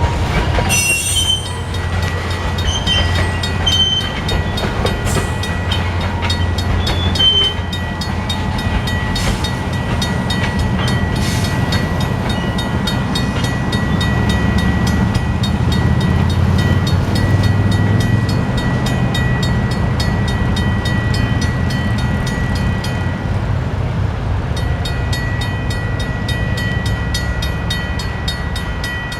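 Freight train of scrap cars rolling slowly over a grade crossing with a steady low rumble. Short wheel squeals come in the first several seconds.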